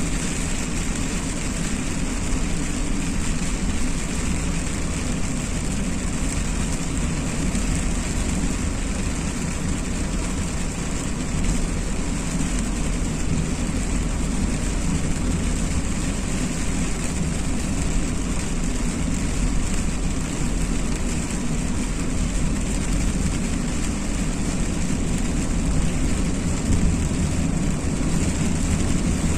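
Car driving on a wet road in rain: a steady low rumble of engine and tyres with a constant hiss of rain and spray.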